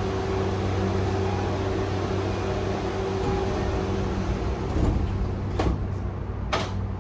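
Interior sound of a JR East E131 series electric train: a steady low hum with a few sharp knocks in the second half.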